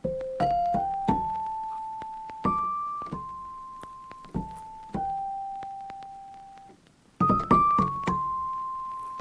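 Background music: a slow melody of single piano-like keyboard notes, each struck and left to ring and fade, with a short quick run of notes about two thirds of the way through.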